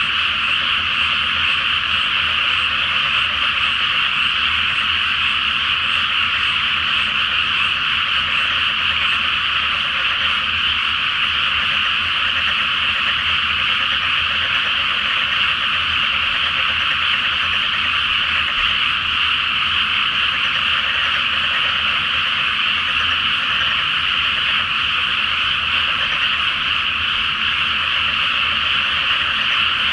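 A massed chorus of frogs calling, so many voices at once that they merge into a dense, steady trill with no pause.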